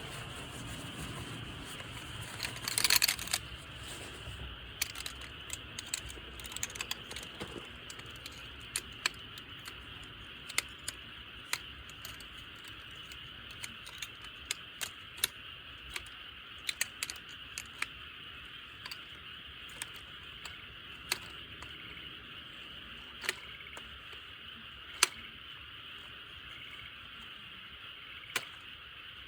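Wood campfire crackling with sharp, irregular pops, and a louder burst of crackling about three seconds in, over a steady high background drone.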